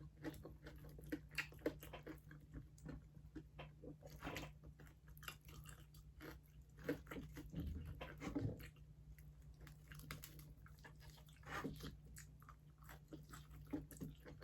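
Mouth close to the microphone chewing crispy pata, deep-fried pork knuckle, with many small crunches and crackles scattered through the chewing.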